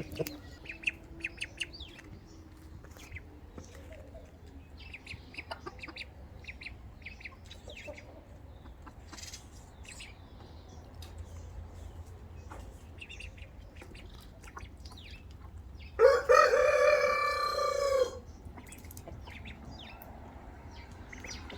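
Chickens give short, faint clucks and chirps, then a rooster crows once, loudly, for about two seconds near the end.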